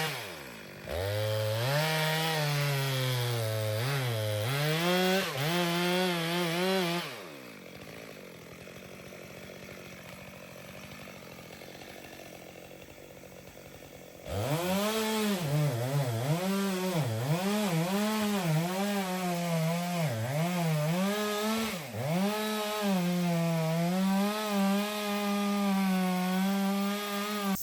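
Two-stroke chainsaw cutting into a dead poplar trunk, its engine speed rising and sagging as the chain loads in the wood. About seven seconds in it drops back to a quiet idle, then revs up again about fourteen seconds in and goes on cutting.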